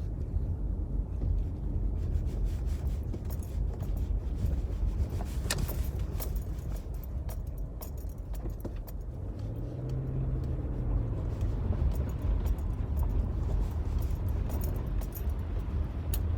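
Car driving slowly on a snowy, slushy road: a steady low rumble of engine and tyres, with scattered light clicks and ticks throughout.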